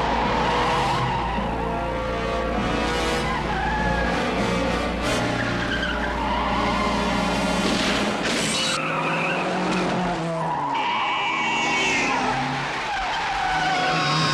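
Film car-chase soundtrack: car engines revving and tyres skidding, with music under it.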